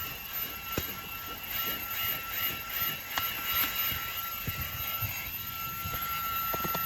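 Fanttik Apex V8 cordless handheld vacuum cleaner running, a steady high whine over a rushing hiss, with a few short knocks and clicks as the nozzle works.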